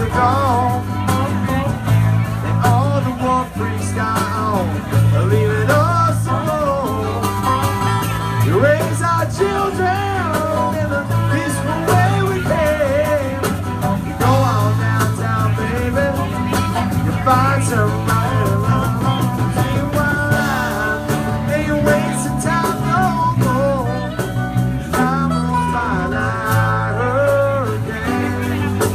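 Live blues-rock band playing an instrumental passage: a lead guitar line with bent, wavering notes over a steady bass line and drums.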